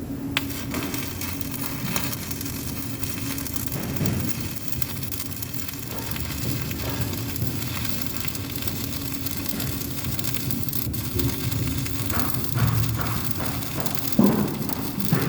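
Electric arc welding: the arc crackling and sizzling steadily over a low steady hum, with a few knocks near the end.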